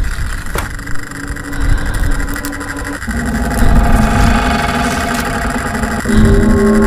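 Horror sound-design drone: a low rumble under sustained, clashing held tones that swell in two steps, about halfway through and again near the end, with a quick falling swoop about half a second in.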